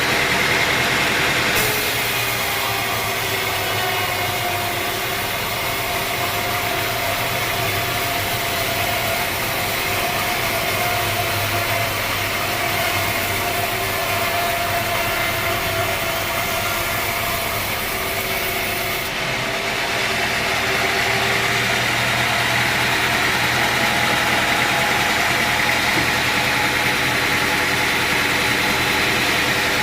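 Sawmill machinery running steadily, an engine-like drone with a few steady whining tones. The sound changes abruptly twice, shortly after the start and about two thirds of the way through.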